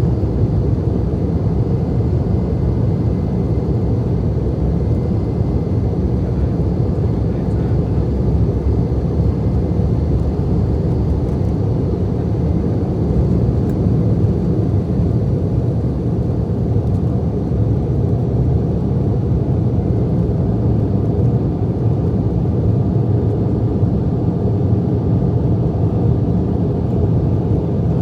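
Cabin noise of an Embraer E175 airliner during takeoff: its twin turbofan engines at high thrust and rushing air make a steady, low rumble.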